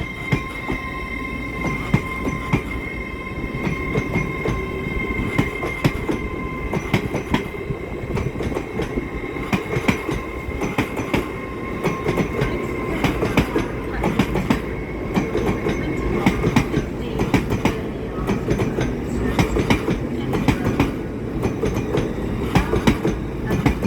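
A passenger train moving along the platform, its wheels clicking and clattering over rail joints and points, with a steady high whine that fades out about two-thirds of the way through.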